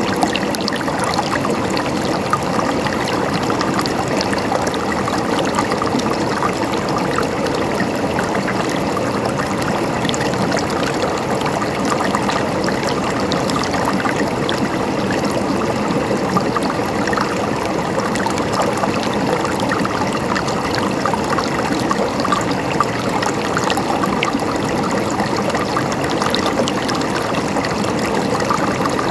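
Flowing water in a small stream, gurgling and trickling steadily with a dense patter of tiny splashes.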